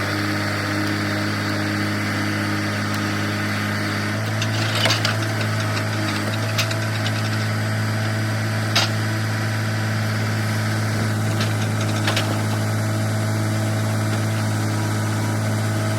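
Log truck's diesel engine running steadily, its note stepping up slightly about four seconds in, with several short sharp knocks over it.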